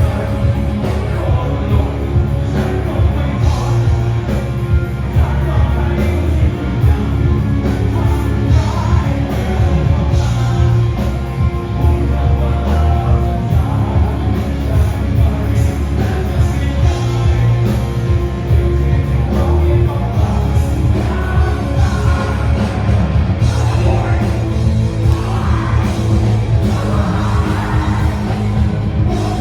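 Rock song with a singer over a full band, loud and continuous.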